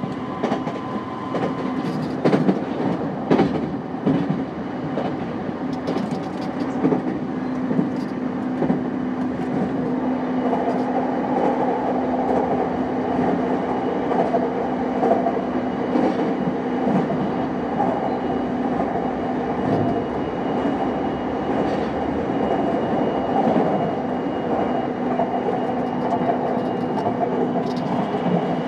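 JR East E233 series 5000 electric commuter train running at speed, heard from inside the car: continuous rumble of the wheels on the rail with a steady motor hum. A few sharp clicks of the wheels over rail joints come in the first few seconds.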